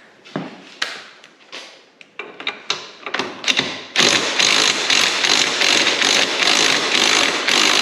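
A run of separate clicks and knocks as the socket is worked onto the bolt, then about four seconds in an impact wrench starts hammering steadily on the shock mounting bolt to break it loose.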